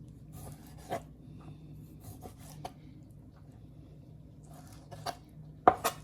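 Kitchen knife slicing raw chicken on a cutting board: quiet cutting and scraping, with a few light knocks of the blade on the board, the loudest two close together near the end.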